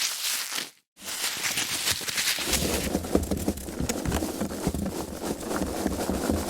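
Foam packaging being handled: dense crackling, rubbing and squeaking of the foam with many small clicks. It breaks off briefly just before a second in, and the handling grows heavier and fuller from about two and a half seconds on.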